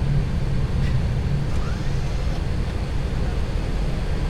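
Steady low rumble of a Boeing 737-800 flight deck while taxiing after landing, with idling engines and airflow.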